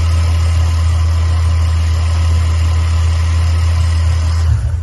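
The 2005 Ford Mustang's newly installed remanufactured engine idles with a steady low hum, then is switched off near the end and goes quiet abruptly.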